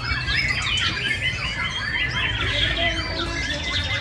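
Many caged songbirds singing and calling at once, a dense overlapping chorus of quick whistles, trills and chirps, over a low steady hum.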